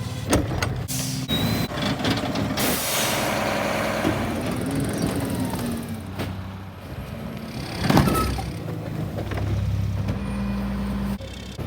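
Mack rear-loader garbage truck with a Heil PowerTrak body: diesel engine running and revving up and down as the packer hydraulics work, with a few knocks early on and a loud air hiss about eight seconds in.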